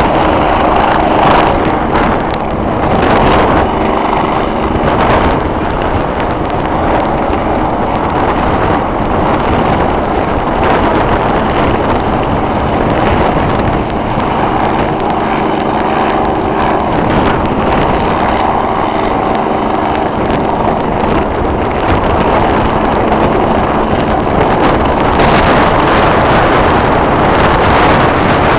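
Rescue helicopter's rotor and engine noise, loud and steady, with faint steady tones coming and going.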